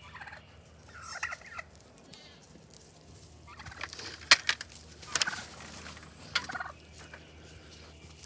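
Goats bleating in short, wavering calls several times, mixed with a few sharp clicks or knocks in the middle.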